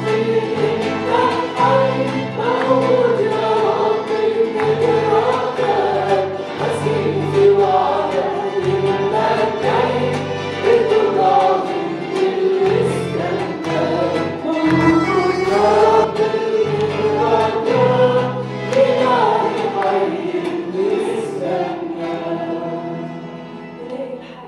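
Group of voices singing an Arabic worship song over held bass notes from the accompaniment, the music dying away near the end.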